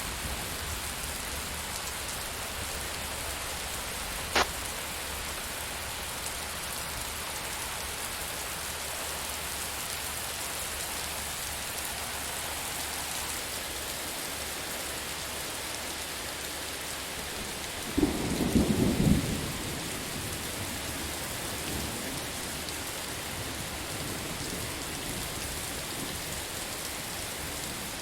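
Steady rain falling, with a single sharp crack about four seconds in. A louder low rumble of thunder lasts a second or two, a little past the middle.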